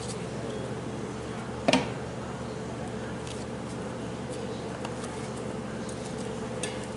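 A single sharp metallic clank about two seconds in, then a few faint light ticks, from metal parts and tools handled on a workbench, over a steady low hum.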